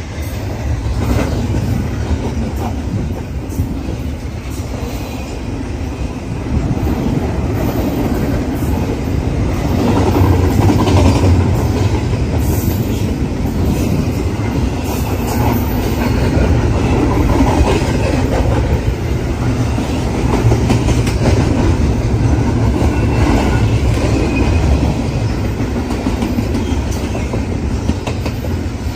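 Container freight train rolling past: a steady low rumble of wheels with a run of clicks over rail joints, getting louder about seven seconds in.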